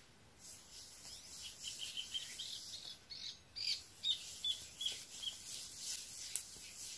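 Faint bird chirping: two runs of short, high chirps, each a few a second, about two seconds apart. Under them, soft rubbing of hands working a hair mask through wet hair, and a single click near the end.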